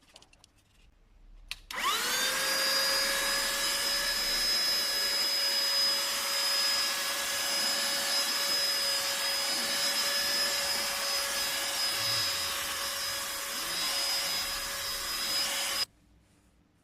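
SIMWAL cordless handheld vacuum cleaner switched on: its motor spins up with a rising whine, then runs steadily with a high whine over a rush of air. It is switched off near the end and cuts out suddenly.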